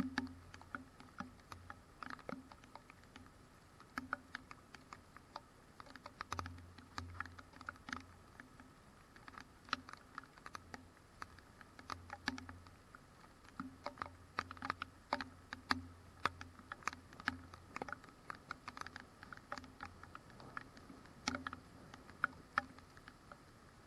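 Raindrops tapping irregularly close to the microphone, several sharp ticks a second, over a faint low hum.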